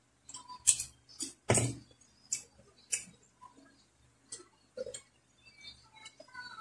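Sharp, irregular crunches of crispy fried mushroom chips being chewed close to the microphone, the loudest in the first three seconds and fainter ones after.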